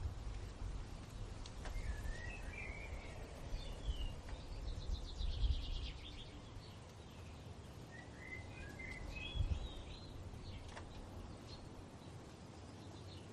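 Songbirds singing short warbling phrases, with a quick trill about five seconds in, over a low rumble.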